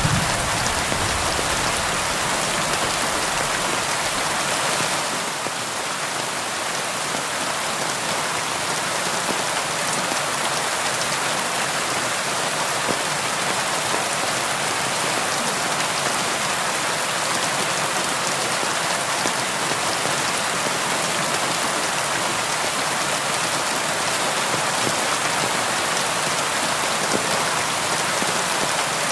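Steady rain falling against a window, an even hiss of many drops with no let-up. A low rumble fades out in the first second, and the rain dips slightly in level about five seconds in.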